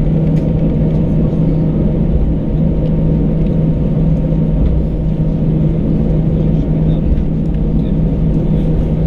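Airbus A319 jet engines and airflow heard inside the passenger cabin: a steady low rumble with a constant hum, holding level with no rise or fall.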